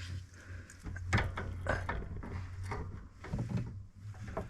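Knocks and clunks of parts being handled and fitted into place: a couple of sharp ones about a second in and more through the middle, over a steady low hum.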